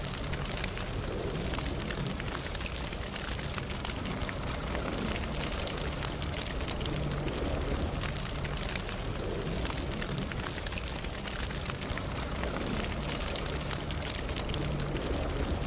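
Campfire burning with a steady low roar of flames and many small, sharp crackles and pops of burning wood.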